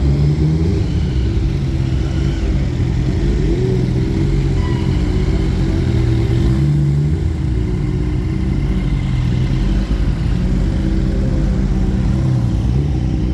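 Car engine running at low speed, steady with small rises and falls in pitch.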